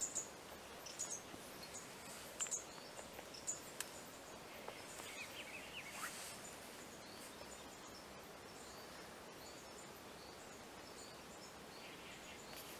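Quiet natural ambience with short, high-pitched bird chirps, several in the first four seconds, a brief run of falling notes about five seconds in, then softer repeated short notes.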